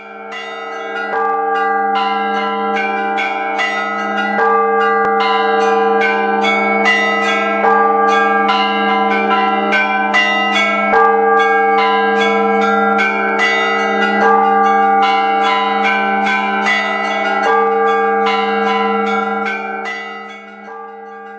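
Church bells ringing a fast, continuous peal: many overlapping strikes, several a second, blending into a sustained ringing that fades near the end.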